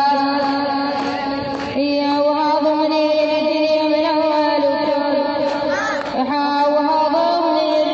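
A woman singing an Arabic mourning lament in long, drawn-out held notes, the pitch shifting only a couple of times.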